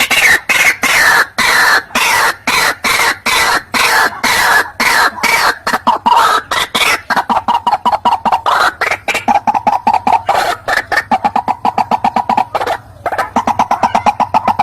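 White-breasted waterhen (ruak-ruak) calling: a fast run of harsh, repeated notes, about four or five a second. The notes slide down in pitch at first and settle onto a steadier, lower pitch later on.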